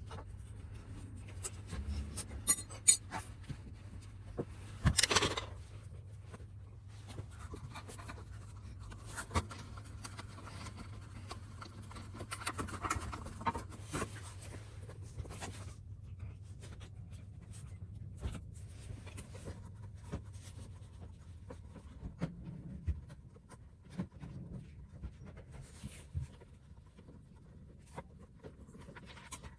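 Scattered clicks, taps and scrapes of hand work on a Suzuki Swish 125 scooter's muffler, with a few sharper knocks near the start, over a faint steady hum.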